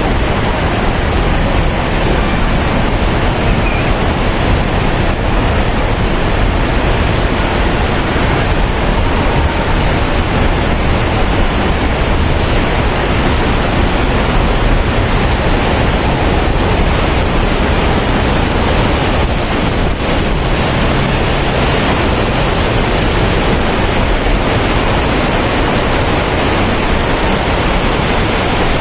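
Man-made waterfall pouring off a bridge into a canal, a steady, loud rushing of falling water.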